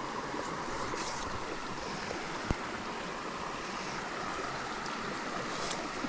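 Steady rush of river water running through a fast, oxygenated stretch, with one sharp click about two and a half seconds in.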